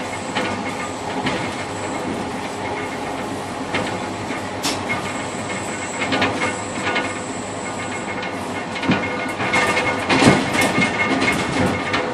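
Interregional passenger train running, heard from the cab vestibule at the rear of the tail car: a steady rumble of wheels on rail with irregular clicks and knocks. The knocks come thicker and louder from about nine to eleven seconds in. A faint high whine stops about two-thirds of the way through.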